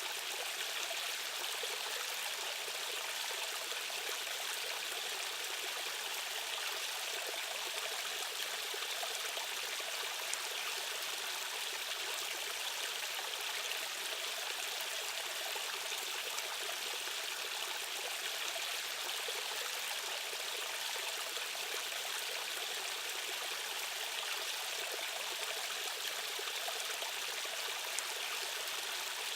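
Rushing stream water running steadily, an even hiss of current with little deep rumble.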